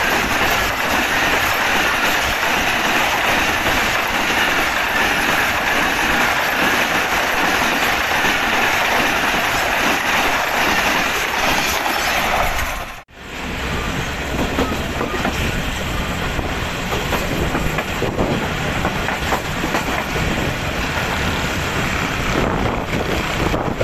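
Passenger train coaches rolling past at speed, wheels clattering over the rail joints. About halfway there is an abrupt break, then the steady rattle and rumble of the train as heard from inside a moving coach.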